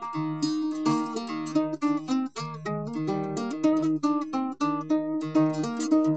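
Background music: plucked guitar, a steady run of picked notes and chords.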